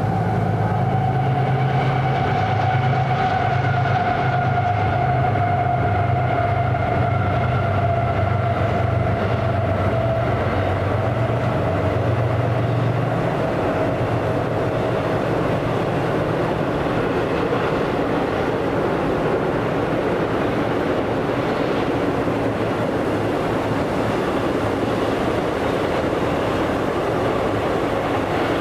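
A train passing: a heavy low drone from the locomotive with a faint, slowly falling whine for about the first half, then the steady rolling noise of the cars, with wheels clicking over the rail joints.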